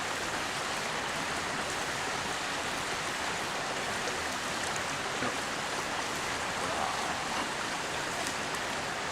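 A clear mountain river flowing close by: a steady rush of running water.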